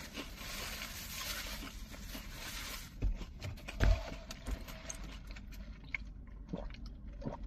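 Paper food wrapper rustling and handling noises for about three seconds, then two dull thumps about three and four seconds in, with scattered small clicks after.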